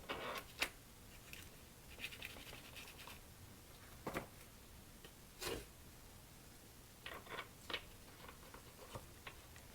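Scattered scraping and a few sharp clicks and knocks of coilover suspension parts being handled and greased for reassembly, the loudest click about half a second in.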